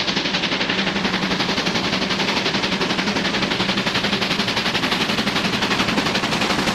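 Steam locomotive exhaust chuffing rapidly and evenly, about eight beats a second.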